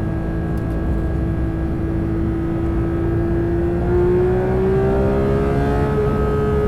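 Porsche 992 GT3's 4.0-litre flat-six running at steady revs, then climbing gradually in pitch from about three seconds in as the revs rise, and holding the higher note near the end.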